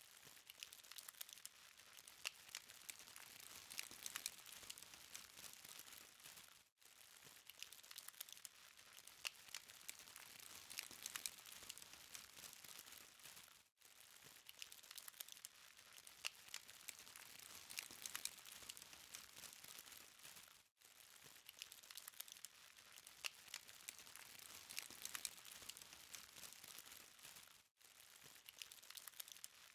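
BBQ charcoal fire crackling faintly with a steady scatter of small sharp ticks and pops. The sound breaks off in a brief gap about every seven seconds.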